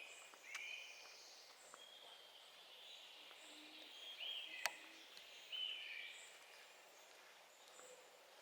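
Faint songbirds singing in a forest: short whistled phrases that come every few seconds, with high thin notes between them. A single sharp click about four and a half seconds in.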